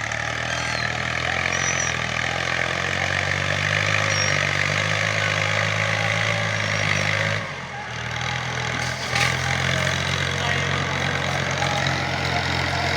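Tractor engine running steadily under light load. It dips briefly about seven and a half seconds in, then picks up again with a short knock.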